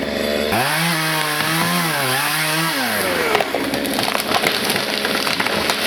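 A new chainsaw, being run in, cuts into a tree trunk, its engine pitch rising and dipping. After about three seconds the engine note gives way to dense crackling and splintering of wood as the tree gives way.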